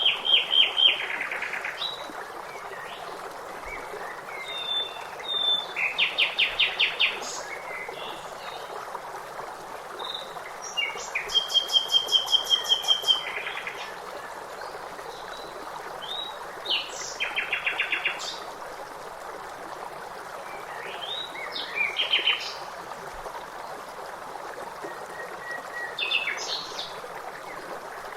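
Songbirds singing over a steady rush of running water; several birds repeat quick trilled phrases every few seconds, with short chirps between.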